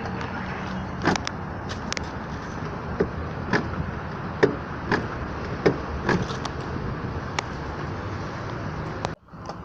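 Steady road and engine noise inside a moving car's cabin, with a few sharp clicks and knocks scattered through it. The frameless door's window glass, its regulator rail braced with zip ties, makes no knocking: zero noise. The sound cuts off abruptly near the end.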